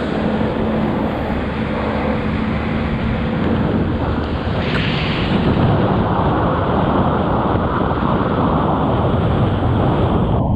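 Yamaha WaveRunner jet ski running over open water. Its engine is mostly buried under heavy wind buffeting the microphone and rushing water, with a brief burst of hiss about five seconds in.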